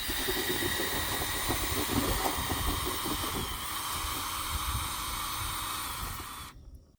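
A drill spinning a dryer-vent cleaning brush on its rods inside the vent duct: a steady rushing hiss with irregular low rattling, stopping abruptly near the end.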